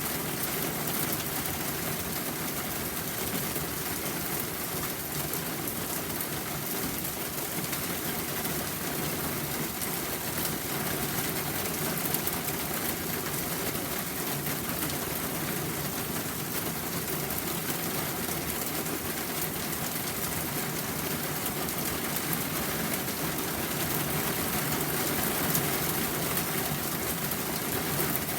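Steady rain falling: an even hiss with a fine patter of drops, over a steady low rumble.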